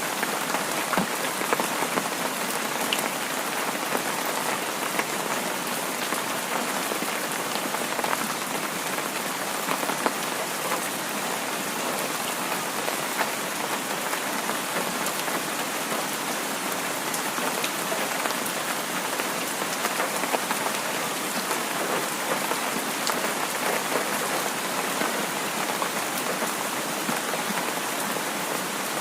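Steady heavy rain falling, an even hiss with many scattered drop ticks.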